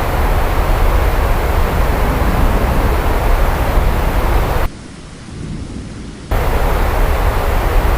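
Steady heavy rain with a deep thunder rumble underneath. About four and a half seconds in, the rain cuts out abruptly, leaving only a faint low rumble for about a second and a half, then cuts back in just as suddenly.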